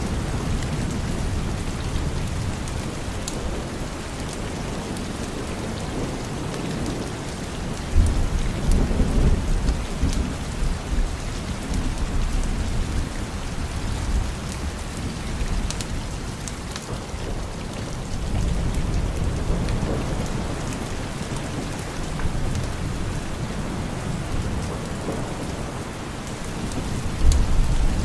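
Steady heavy rain with rolling thunder. A deep rumble breaks in suddenly about eight seconds in and lasts a few seconds, a softer one swells later, and another sudden one comes near the end.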